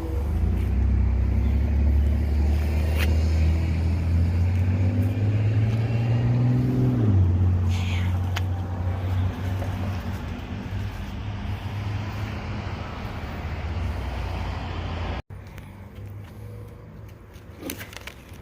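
Car engine accelerating, its pitch climbing steadily, then dropping abruptly at a gear change about seven seconds in and running on steadily. After a sudden cut near the end, quieter road and engine noise continues.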